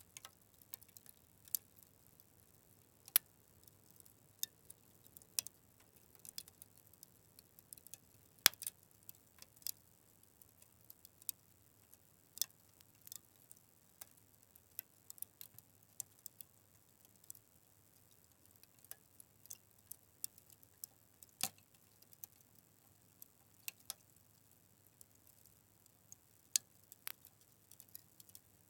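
Fire crackling: irregular sharp pops and snaps over a faint hiss, the loudest snaps about three and eight and a half seconds in.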